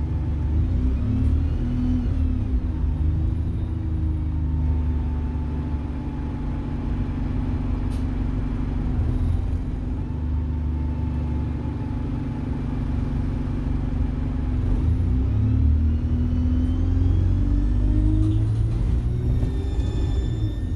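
Alexander Dennis Enviro 200 single-decker bus's diesel engine running under way, its note rising and falling a few times with the revs. A high turbocharger whine rides over it and climbs sharply in pitch near the end.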